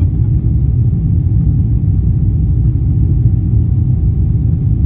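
Airliner cabin noise: the steady low rumble of the jet engines and airflow, with a faint steady hum above it.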